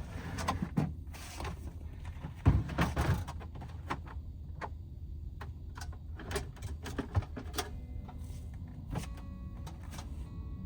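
Scattered knocks, clicks and clatters of things being handled, loudest in a cluster about two and a half seconds in, over a steady low rumble.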